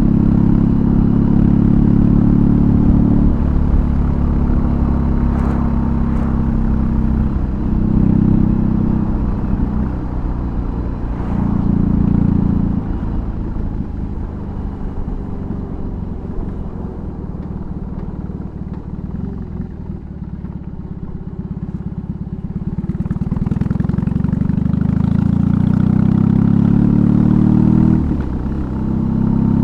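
BMW R18's big boxer twin with an aftermarket exhaust, riding on the road: the engine pulls under throttle with a few short breaks in the first third, eases off and runs quieter and lower through the middle, then opens up again, with a brief dip near the end.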